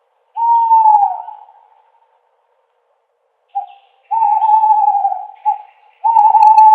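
Owl hooting: a long hoot that drops in pitch about half a second in, then a short note and a long, slightly wavering hoot around four seconds in, another short note, and a further long hoot near the end.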